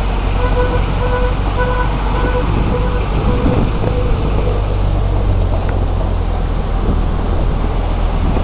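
Steady vehicle engine and road noise with a low hum, and a short pitched beep repeating about twice a second through the first half.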